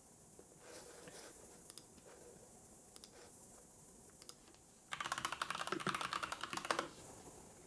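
Typing on a computer keyboard: a few scattered key clicks, then a quick burst of rapid keystrokes lasting about two seconds, the loudest part, before it stops near the end.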